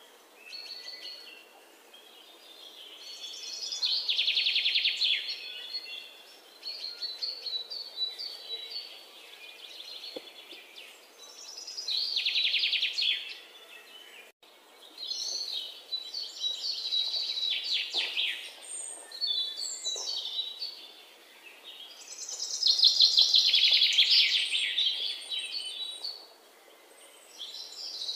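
Birds singing: high, rapid trilled phrases that swell and fade every few seconds, with softer chirps in between.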